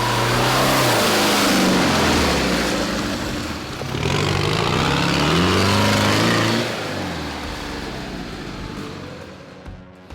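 Off-road 4x4's engine revving hard under load in two long surges, pitch rising and falling with each, then easing off and fading away near the end.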